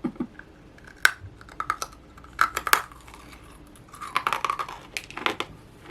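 Crisp crunching as a puffed freeze-dried banana Laffy Taffy is bitten and chewed: a sharp crack about a second in, then scattered clusters of brittle crackles.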